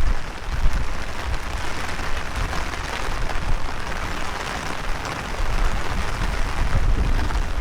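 Heavy rain falling, with strong wind buffeting the microphone in an uneven low rumble.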